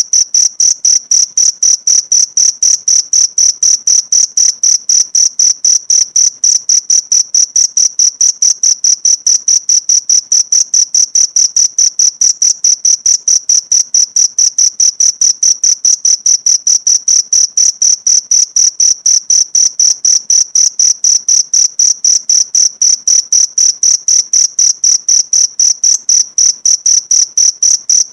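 Cricket chirping: one high, steady note repeated in an even rhythm of about four to five chirps a second. It starts abruptly at the very beginning after silence.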